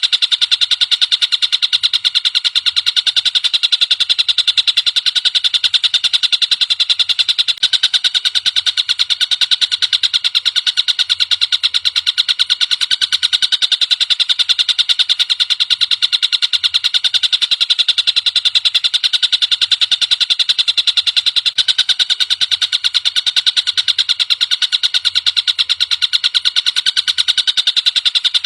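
Tengkek buto kingfisher call as a masteran recording: a loud, continuous, very rapid high rattling trill of fast repeated notes, steady and unbroken throughout.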